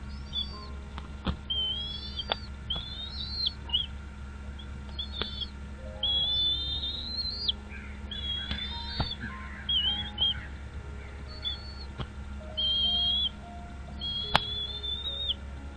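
A bird calling over and over in short, high whistled chirps with sliding pitch, about one phrase a second, over a steady low hum and a few sharp clicks.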